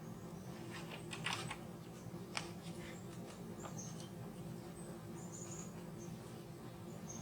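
Small birds chirping in short high notes over a steady low hum, with a few light taps about a second and two and a half seconds in.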